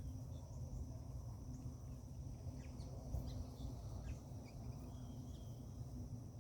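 Garden ambience: a steady high insect drone, like crickets, with scattered short bird chirps over a constant low rumble.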